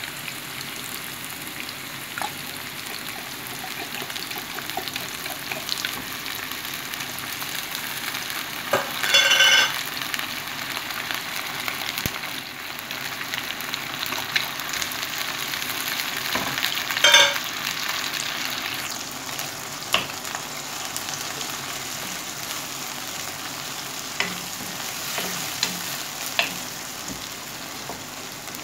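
Sliced red onion and garlic sizzling in oil in a nonstick wok, stirred with a wooden spatula, with flaked canned tuna added partway through. Two brief, louder rasping sounds stand out, about nine and seventeen seconds in.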